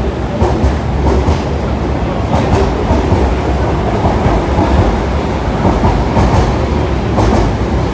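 Sotetsu electric commuter train pulling out of the station past the platform, its steady low rumble broken by scattered clacks of the wheels over rail joints.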